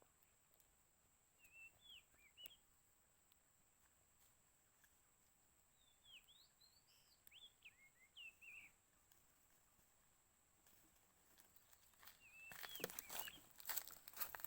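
Oriental magpie-robin giving short whistled calls in three scattered bursts over faint background hiss. Rustling starts near the end.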